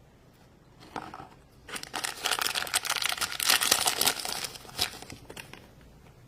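Toy packaging being crinkled and torn open by hand: a dense run of crackling and rustling, starting briefly about a second in and lasting a few seconds before it dies away.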